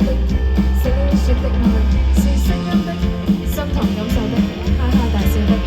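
Live band music: strummed guitars over a steady bass line with a repeating beat, and a wavering melody line on top.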